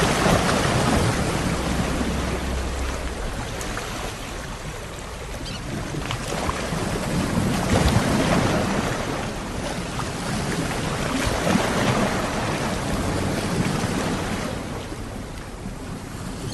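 Sea waves washing in: a continuous rush that swells and eases every few seconds, loudest about eight seconds in.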